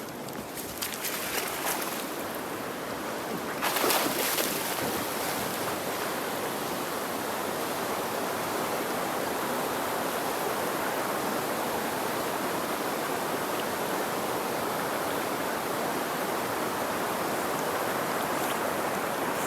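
River water rushing steadily. A few sharp clicks and knocks come in the first few seconds, the loudest about four seconds in.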